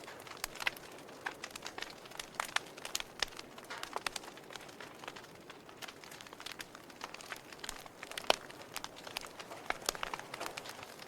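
Wood fire burning in a fireplace: irregular sharp crackles and pops from the burning logs over a soft steady hiss, with one louder pop about eight seconds in.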